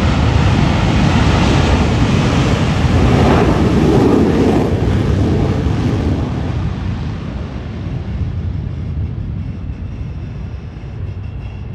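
Blue Angels F/A-18 Super Hornets of the four-jet Diamond taking off in afterburner: loud jet noise that swells to a peak about four seconds in as they pass, then fades away.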